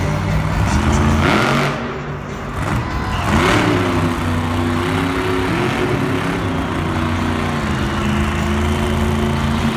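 Monster truck engine revving up sharply twice, then running at a steady speed.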